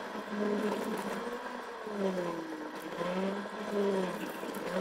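Car engine running while driving, its pitch rising and falling several times as the throttle is eased on and off.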